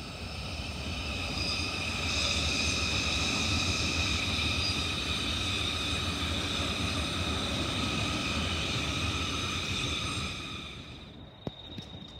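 Electric suburban train passing on the rail yard tracks: a low rumble with a steady, high-pitched whine of several tones on top. It builds over the first couple of seconds, holds, and cuts off shortly before the end, followed by a single click.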